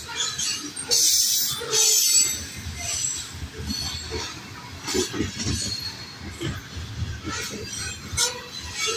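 Covered hopper cars of a KCS freight train rolling past close by, wheels rumbling and knocking over the rail with short high squeals. A loud rush of noise comes about a second in.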